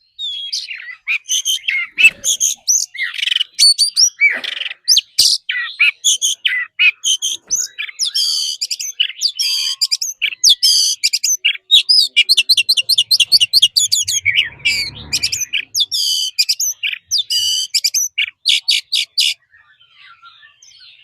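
Oriental magpie-robin singing a loud, varied song of rapid whistles, trills and chirps, which stops about two seconds before the end, leaving only faint chirps.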